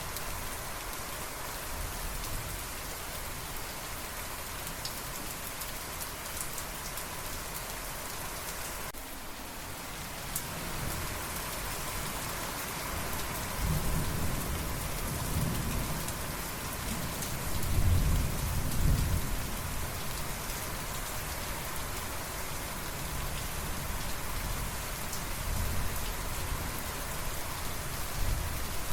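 Steady rain falling, with a rumble of thunder that builds from about halfway through and peaks a few seconds later before fading back under the rain.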